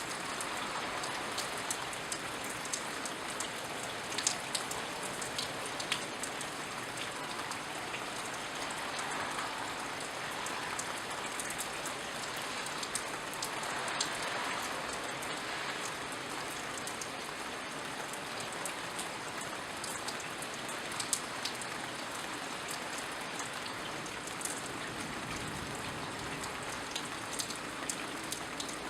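Steady rain falling, with scattered close drips and patters of drops against the hiss of the rainfall.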